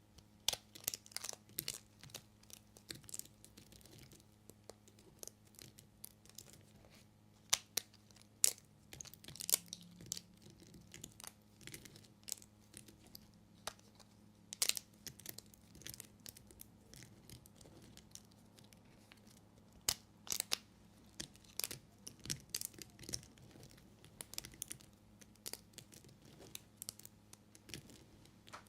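A knife cutting through bars of soap: a run of irregular, crisp crunches and crackles, some sharper and louder than others.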